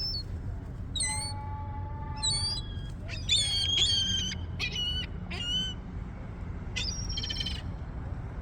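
Seagulls calling: a run of harsh, overlapping cries, thickest about three to four seconds in, over a steady low rumble.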